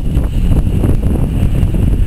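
Railway coaches rolling on the track, a steady low rumble, mixed with wind buffeting the microphone.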